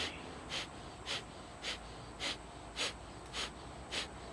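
A person doing yogic pumping breathwork: short, forceful exhales driven by pumping the belly in, about two a second in an even rhythm.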